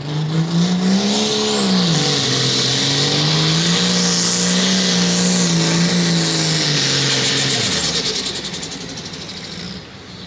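Turbocharged super stock pulling tractor's engine running hard under load, its pitch wavering, with a high turbocharger whistle over it. Near the end comes a rapid chirping that the announcer puts down to the turbocharger, and the engine falls off about eight seconds in, cutting the pull short.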